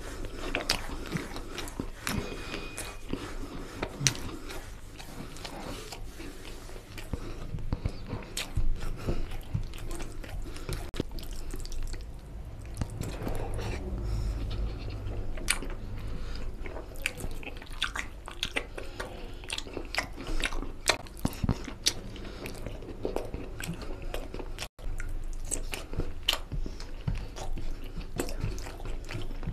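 Close-miked chewing and wet mouth sounds of rice and egg-and-chicken curry being eaten by hand, with frequent short, sharp clicks and smacks.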